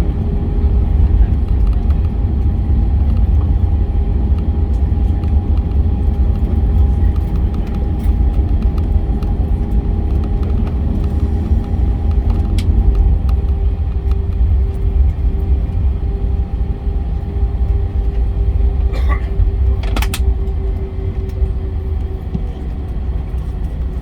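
Airbus A321 heard from inside the cabin, rolling on the ground after landing: a loud, steady deep rumble with a steady hum over it. A couple of short clicks come near the end.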